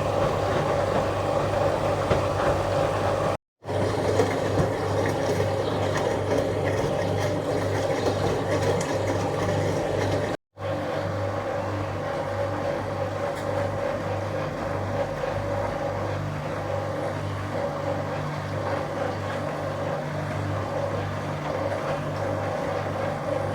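A 1966 Bendix LA automatic washing machine running with a steady mechanical hum while it drains after the first rinse. The sound drops out completely twice, for a split second each time.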